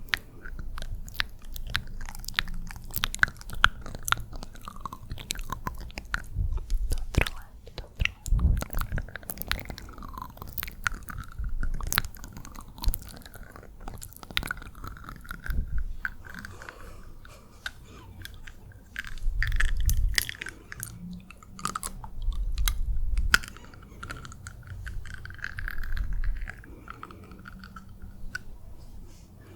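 ASMR wet mouth sounds close to the microphone: rapid, irregular lip and tongue clicks and pops, with soft breathy mouth noises between them.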